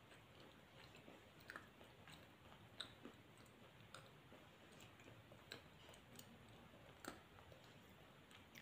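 Faint chewing: a person eating, with soft wet mouth clicks about every second or so.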